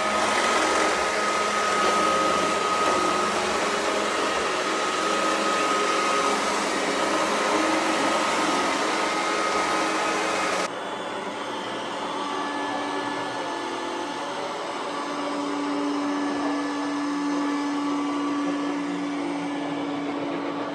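iRobot Roomba s9+ robot vacuum running with a steady whir. About halfway through the sound drops suddenly and loses its hiss, going on as a quieter hum with a steady tone.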